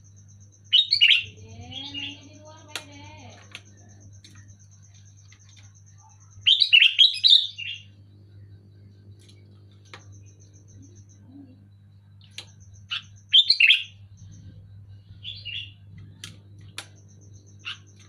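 Sooty-headed bulbul (kutilang) calling in short bursts of quick, bubbly notes: loud bursts about a second in, around seven seconds and near thirteen seconds, with a few softer calls between. A steady low hum and a thin, pulsing high tone run underneath.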